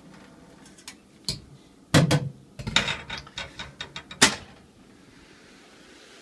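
Kitchenware knocking and clattering while boiled noodles are drained: a series of sharp knocks, loudest about two seconds in and again a little after four seconds.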